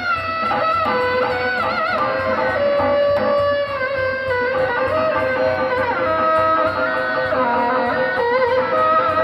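Live benjang accompaniment music: a sustained, wavering melody line over a steady drum beat.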